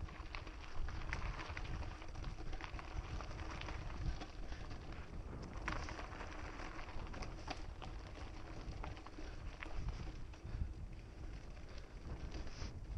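Mountain bike ridden over a dirt trail: tyres rolling and the chain and frame rattling, with sharp clicks and knocks from bumps and roots. Wind buffets the microphone throughout.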